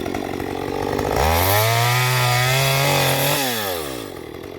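Chainsaw engine revving up to full throttle about a second in, held high for about two seconds, then dropping back toward idle near the end.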